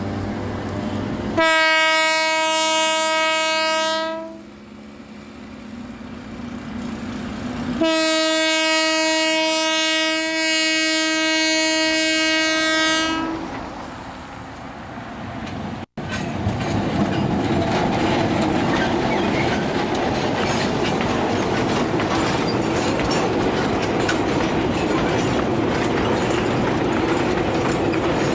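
Narrow-gauge sugar cane train's horn sounding two long single-pitch blasts, the second about five seconds long. After an abrupt cut, the train runs past with steady running noise and the clickety-clack of its wheels on the rail joints.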